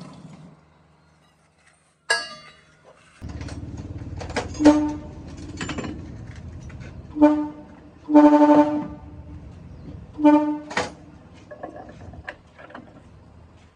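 A vehicle horn honking several short toots and one longer blast, over the low rumble of an engine that starts running about three seconds in.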